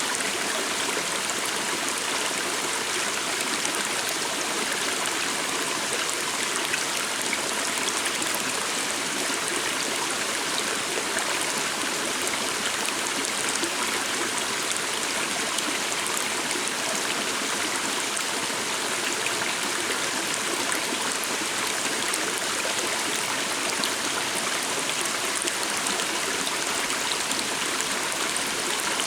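A stream running steadily: an even, unbroken wash of flowing water.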